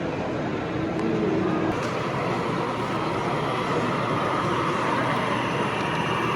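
Steady din of a train-show hall: model trains running on layouts under crowd chatter.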